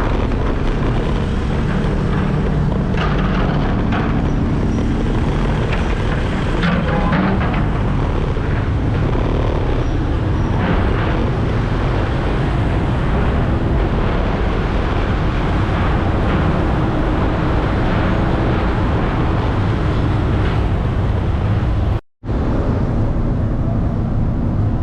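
Steady engine and traffic noise of motor vehicles, dense and low, that drops out completely for a split second near the end.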